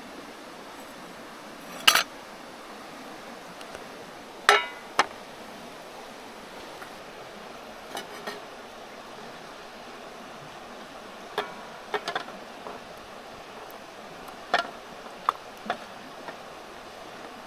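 Metal camp cookware being handled: about a dozen sharp clinks and knocks at irregular intervals, one with a brief ring. Under them runs the steady hiss of a river.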